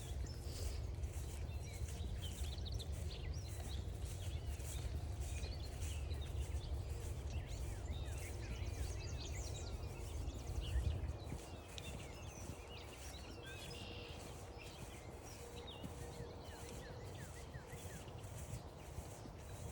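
Mixed birdsong, many short chirps and trills from several birds, over an even rhythm of footsteps on a trail. A low rumble sits underneath, heavier in the first half and easing about halfway through.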